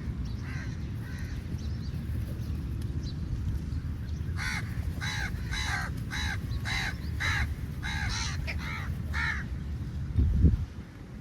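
Crow cawing: a couple of faint caws, then a run of about nine harsh caws, roughly two a second. A steady low rumble lies underneath, and a loud thump comes near the end.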